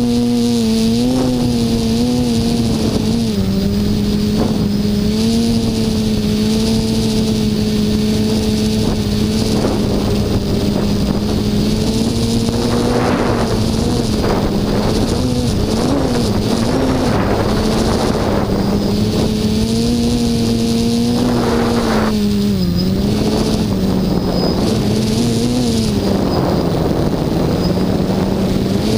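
HT-FPV Hoverthings quadcopter's electric motors and propellers humming steadily, the pitch dipping and rising as the throttle shifts. Gusts of wind rush over the microphone in the middle and again near the end.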